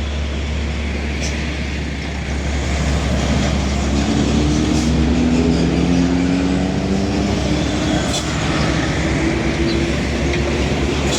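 Heavy truck engine running with a steady low rumble; about four seconds in its note climbs slowly as it pulls, then settles.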